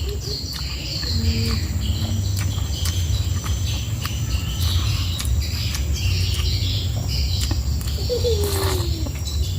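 Crickets chirping over a steady low hum, with scattered small clicks and one short falling voice-like sound about eight seconds in.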